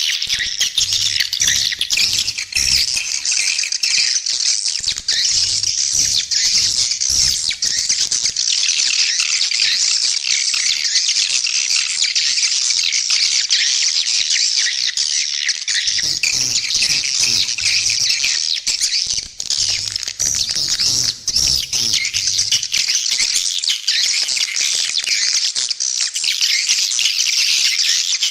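A flock of edible-nest swiftlets chattering in a dense, unbroken high twitter. This is a swiftlet call recording of the kind played to lure swiftlets into nesting houses.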